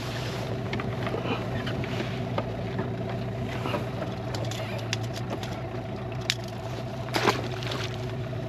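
A boat's motor running steadily with a low hum, with a few knocks about six and seven seconds in.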